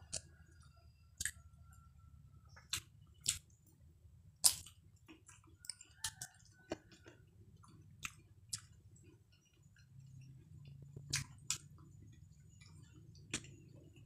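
A person chewing food close to the microphone, with irregular wet mouth smacks and sharp clicks, the loudest about four and a half seconds in.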